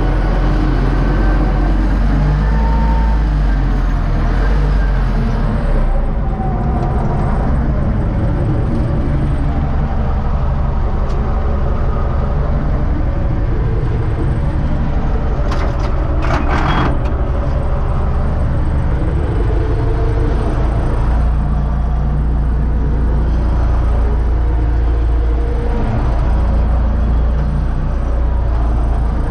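Universal U650 tractor's four-cylinder diesel engine running steadily, with a short rattle about halfway through.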